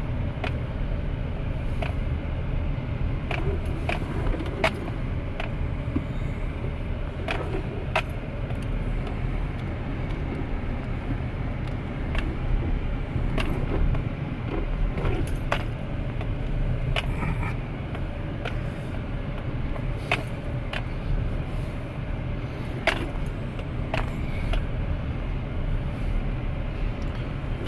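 Pickup truck crawling over a loose-rock dirt track in four-wheel-drive low, heard from inside the cab: a steady low rumble with irregular sharp clicks and knocks of rocks and loose things rattling as it bounces.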